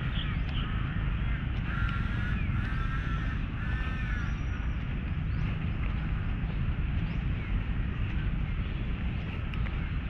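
A bird gives three short harsh calls in quick succession about two seconds in, over a steady low rumble of background noise.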